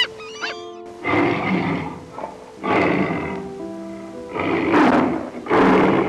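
Tiger growling in four harsh, rough calls, one about every second and a half, over soft piano music, with a few bird chirps in the first second.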